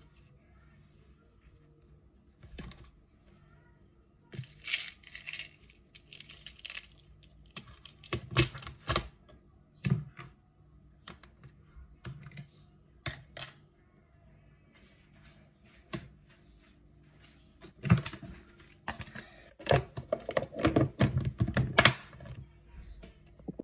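Irregular clicks, knocks and light clattering, in scattered clusters, louder towards the end.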